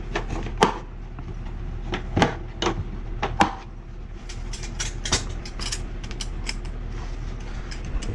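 Work noises: about ten sharp clicks and knocks at irregular intervals, the loudest in the first few seconds, over a low steady hum.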